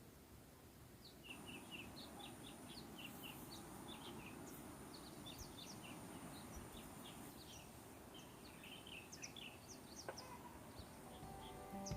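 Faint outdoor ambience: small birds chirping in short, scattered calls over a low, steady background hiss, with a thin high steady whine through most of it.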